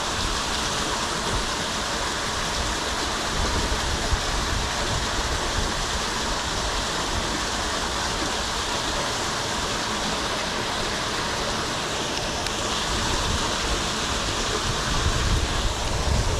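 Steady rush of water running at a pond's drain.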